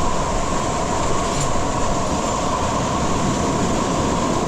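Water falling down a waterfall, rushing loudly and steadily.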